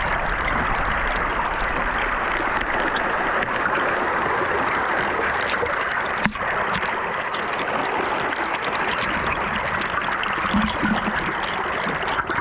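River water rushing steadily, with one sharp knock about six seconds in.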